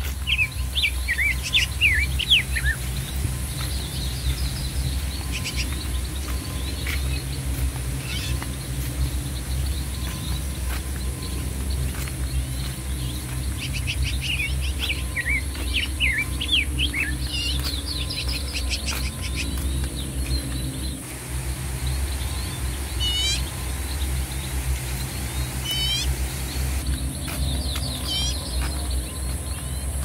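Several birds chirping and calling in quick bursts of gliding notes, with a few sharp sweeping whistles in the last third, over a steady low rumble and a constant high hiss.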